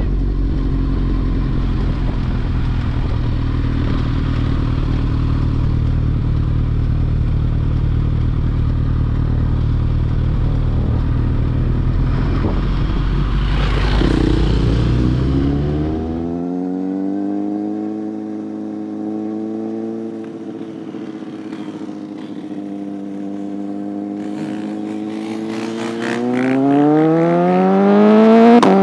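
Motorcycle engine heard from on board during a ride: a steady low rumble at first. About halfway through the engine note drops and holds, and near the end it revs up sharply and then falls suddenly, as at a gear change.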